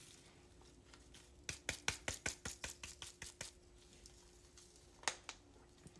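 A quick run of light clicks and taps lasting about two seconds, with one more click near the end, as a bottle of zero-calorie tahini sauce is handled and dispensed.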